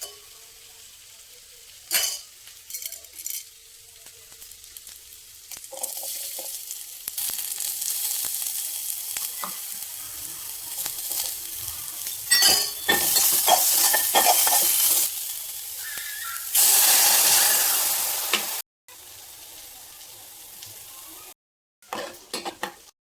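Food sizzling and frying in a hot pan while it is stirred, with sharp scrapes and clinks of a utensil against the pan. The sizzle swells and fades across a string of short clips that cut off abruptly, and is loudest about three-quarters of the way through.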